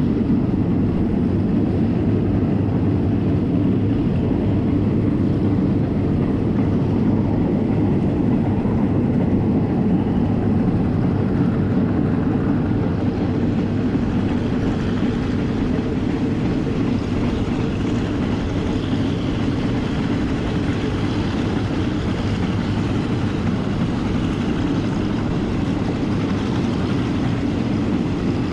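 Passenger train running along the track, with a steady low rumble throughout.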